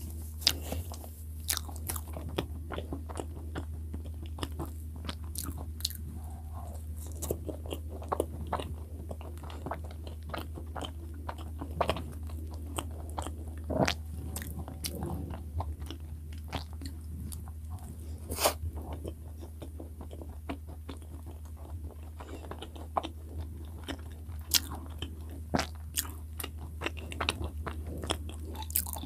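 Close-miked biting and chewing of soft cream-filled bread, with scattered sharp mouth clicks at irregular intervals.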